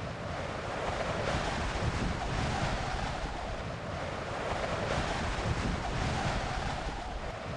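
Strong wind blowing steadily, an even rush of noise with gentle swells.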